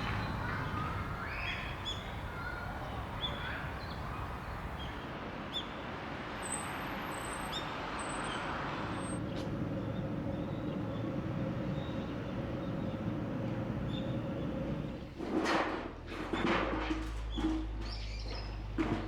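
Small birds chirping and calling on and off over a steady background hiss, with the chirps thinning out after the first half. Near the end come a few louder, sudden sounds.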